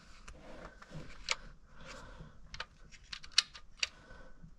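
Light, irregular clicks and taps of metal engine parts being handled while a timing chain guide is fitted.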